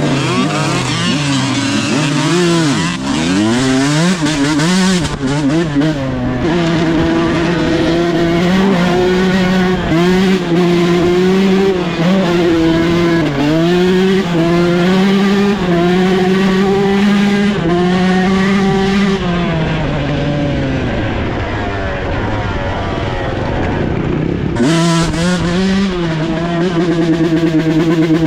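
Dirt bike engine revving hard and shifting through the gears, its pitch rising and falling again and again; it eases off to a lower, quieter note about twenty seconds in, then picks up again near the end.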